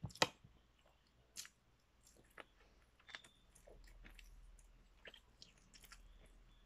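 Close mouth sounds of eating beef from bulalo: biting and chewing meat, with scattered small wet clicks. Two sharp clicks right at the start, as the fork and spoon work the meat on the plate.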